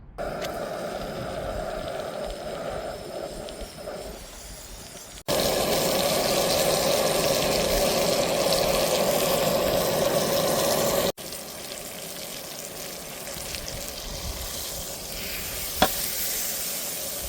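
Steak sizzling in a hot pan, a steady frying hiss. It comes in three pieces with abrupt cuts about five and eleven seconds in, the middle piece loudest.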